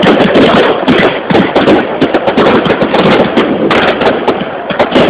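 Fireworks going off: a dense, continuous crackle of many overlapping pops and bangs.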